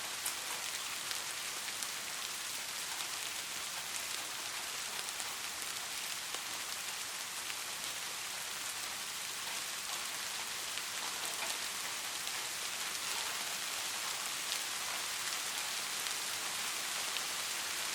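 Steady soft rain falling: an even hiss with scattered individual drop taps.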